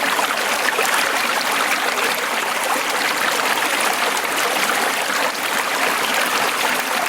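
Small mountain stream running over rocks: a steady, close rush of water that fills the whole sound.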